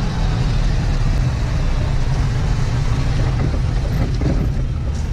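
A large vehicle engine running steadily, with strong, even low-pitched engine tones under a constant noise.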